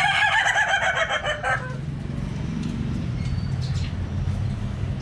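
A rooster crowing: one long wavering call that breaks off about a second and a half in, followed by a steady low hum.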